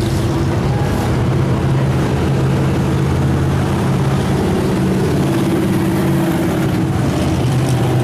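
Show car engine running at low revs in a steady low rumble, without revving up or down.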